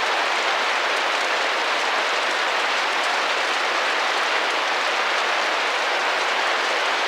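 Steady rain pattering on a window pane, an even hiss of many small drops.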